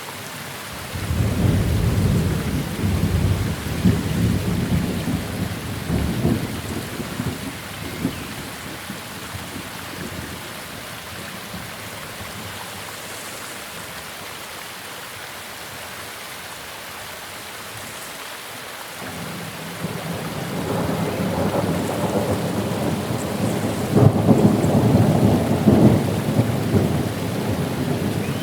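Steady rain with two long rolls of thunder: the first breaks about a second in and rumbles for several seconds, and the second builds from about two-thirds of the way through to its loudest near the end.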